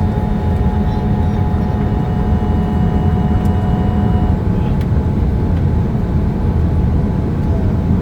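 Cabin noise inside a Boeing 787 Dreamliner during the landing approach: a steady low rumble of engines and airflow. A few faint steady tones sound over it and stop about four seconds in.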